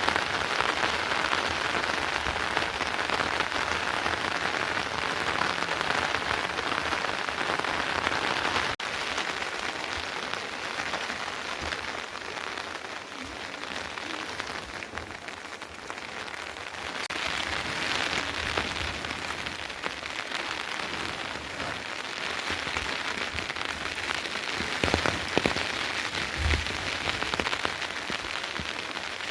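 Steady rain falling and pattering on surfaces, a little softer after about nine seconds, with a few louder drips or knocks near the end.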